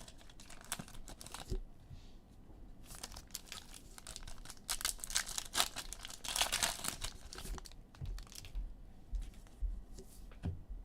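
Foil trading-card pack wrappers being torn open and crinkled, with cards rustling as they are handled, in several irregular bursts that are loudest in the middle.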